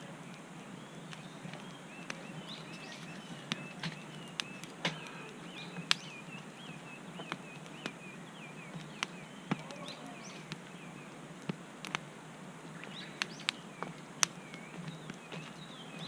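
Wood campfire crackling, with irregular sharp pops, while birds chirp in the background.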